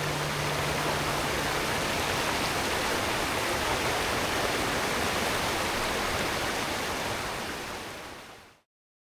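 A steady rush of running water that fades out and cuts off to silence about a second before the end. A held low music note dies away in the first two seconds.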